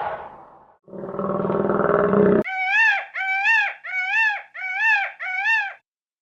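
An animal's low, rasping growl that cuts off abruptly, followed by five short, arching, clear-pitched calls in quick succession.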